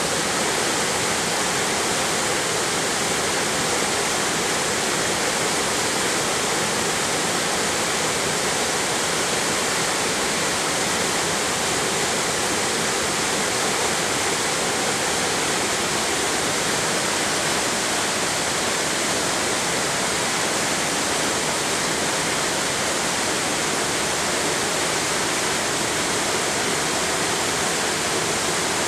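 Waterfall and mountain stream rushing over rock, a steady, unbroken roar of falling water.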